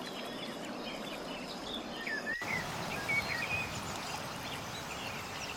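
Scattered short bird chirps and brief whistled glides over a steady background hiss, with an abrupt break in the sound about two seconds in.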